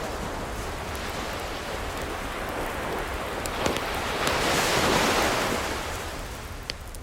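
Ocean wave surging in and washing up, swelling to its loudest a little past halfway and then easing back, with a few sharp crackles from a fireplace.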